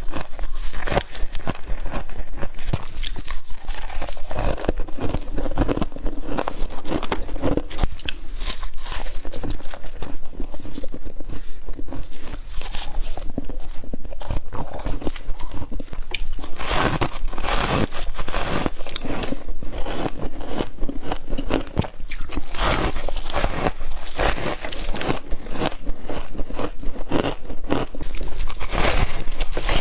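Close-up crunching of humidifier frost being bitten and chewed, a dense, irregular run of crisp crunches.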